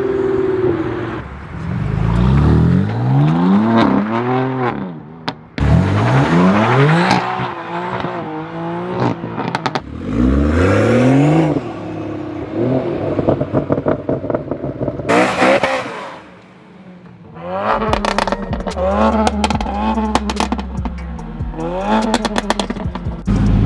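Performance car engines revving hard several times, each rev rising steeply in pitch and then dropping back. In the later part the exhausts crackle and pop over a low rumble.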